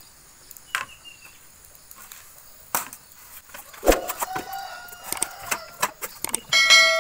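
Bamboo poles knocking together as they are handled, with a few sharp knocks, the loudest about four seconds in. A rooster crows in the background around the same time. Near the end comes a loud ringing chime, the sound effect of an on-screen subscribe-button animation.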